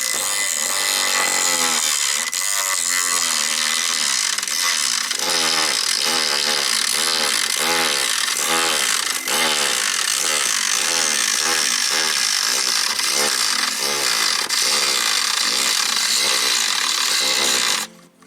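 Homemade mini grinder, a small 12-volt DC motor in a PVC pipe housing, running hard against material with a high, harsh grinding hiss and a repeating rise and fall in pitch as it bites and eases off. It stops suddenly near the end.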